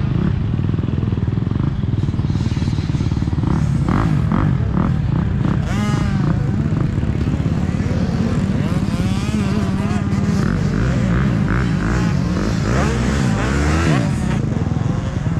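Motocross bike engine being ridden, its pitch rising and falling again and again as the throttle is opened and closed.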